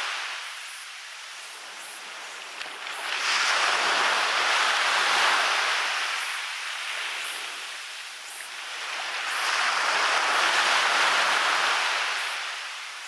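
Waves breaking and washing up a beach, the surf swelling and easing twice, about six seconds apart.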